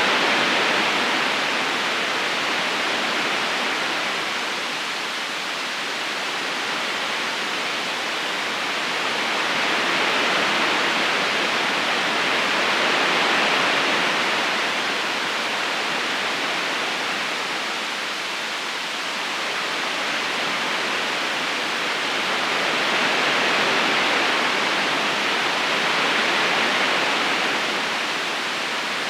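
Steady rushing of flowing river water, a smooth hiss-like wash that slowly swells and eases every several seconds.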